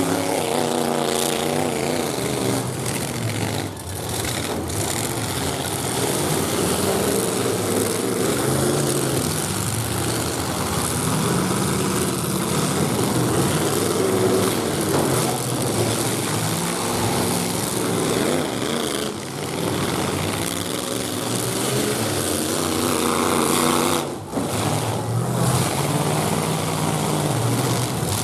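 Several pickup truck engines revving hard in a truck demolition derby, their pitch repeatedly rising and falling as the drivers accelerate and back off, with a few brief dips in the noise.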